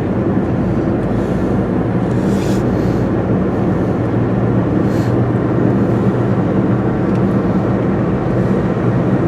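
Steady road and engine noise of a moving car, heard from inside the cabin: a constant low hum with tyre rumble.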